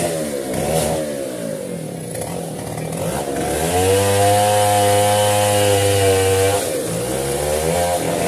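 Chainsaw engine revved up and down a few times, then held at full throttle for about three seconds in the middle while cutting wood, before dropping back.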